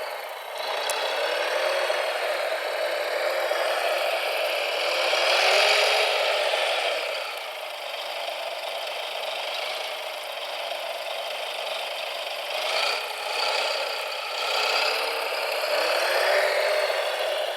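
Small electric motors and gearboxes of radio-controlled construction machines whirring with a rattle, their pitch rising and falling as the machines speed up and slow down.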